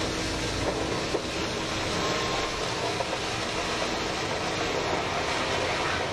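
Toy mining dump truck being played with: a steady rumbling rattle with small scattered clicks, which stops abruptly at the end.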